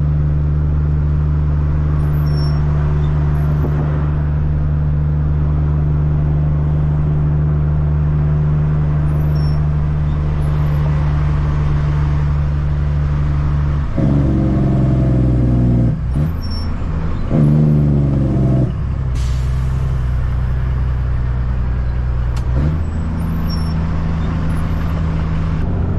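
Caterpillar C-15 diesel engine of a Kenworth truck running steadily at low revs in slow traffic. About fourteen seconds in it revs up twice, with a short break between, as the truck moves off, then settles back to a steady run. A brief hiss of air comes just after the second rev.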